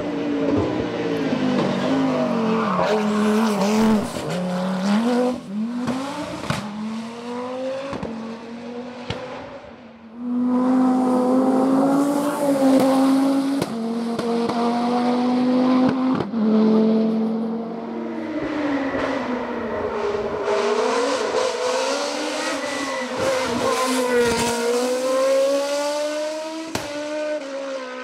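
Racing car engines at full throttle, rising in pitch and dropping back with each gear change and lift as cars go by. About ten seconds in the sound dips and jumps to another car.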